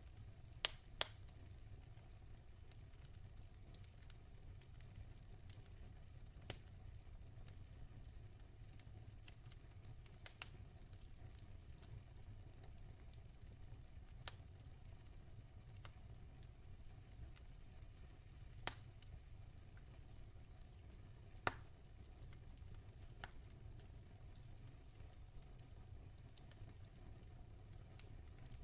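Log fire crackling quietly: sparse sharp pops and snaps every few seconds over a low, steady rumble, with two quick pops right at the start and a pair close together about a third of the way in.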